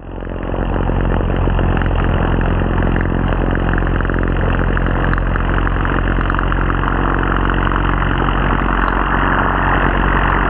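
An engine running steadily at an even speed, rising in over the first second and then holding constant.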